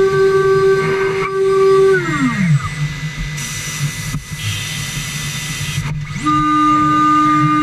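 CNC router spindle whining steadily, then spinning down about two seconds in, under a lower steady hum. Near the end the spindle whine starts up again suddenly at a slightly lower pitch.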